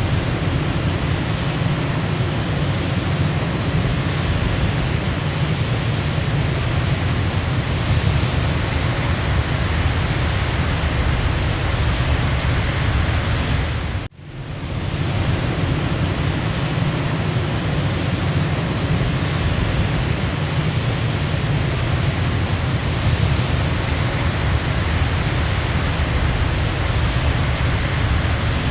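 Waterfall rushing with a steady, full roar of falling water. About halfway through the sound drops out abruptly and fades back in within about half a second.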